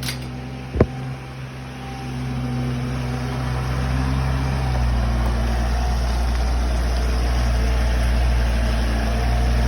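A motor vehicle's engine running steadily, growing louder over the first few seconds, with a single sharp knock about a second in.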